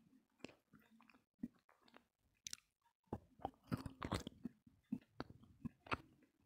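A person biting and chewing pieces of roasted multani mitti (Fuller's earth clay), with irregular crisp crunches that come thickest about halfway through.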